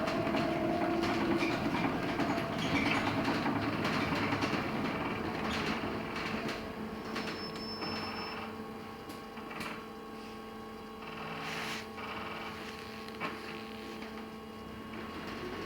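Cabin noise inside a LiAZ-6274 electric bus. Rolling and drive noise with steady electric tones fades about six seconds in as the bus slows. A steady hum remains, with a few knocks and a short high beep about seven seconds in.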